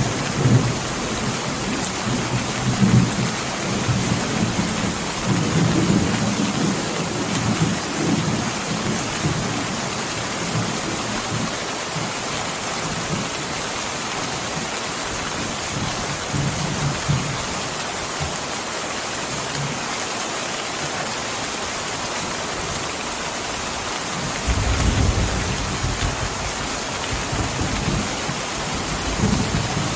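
Steady rain falling, with low rolling thunder rumbles that swell and fade through the first ten seconds or so and return near the end.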